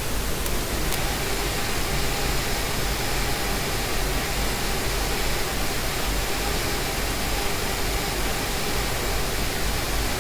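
Steady whirring hiss with a faint even hum from a small fischertechnik electric motor driving the monorail carriage very slowly under pulse-width-modulated power.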